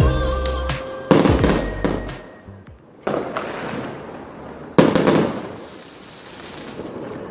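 Fireworks going off: three sharp bangs, about one, three and five seconds in, each fading away over a second or two.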